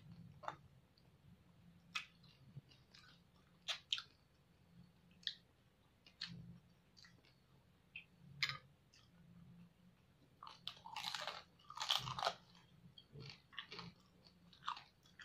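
Chewing and crunching of crispy pata (deep-fried pork knuckle) and rice, in scattered crackly bites, with a denser run of crunching about eleven seconds in.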